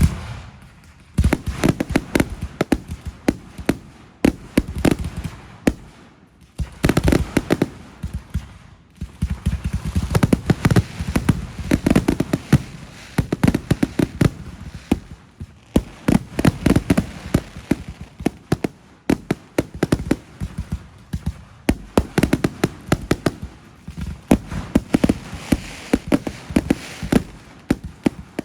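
Fireworks going off without a break: a dense, irregular stream of sharp bangs and crackles, with heavy, deep booms from shell bursts mixed in.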